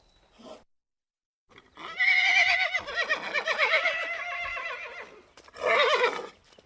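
Horse neighing: one long whinny with a quavering, trembling pitch starting about a second and a half in, followed by a shorter whinny near the end.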